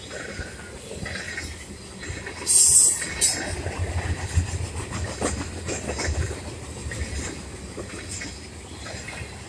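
Freight train of covered hopper cars rolling past close by: a steady rumble with the wheels clicking over the rail joints. A loud, short hiss about two and a half seconds in.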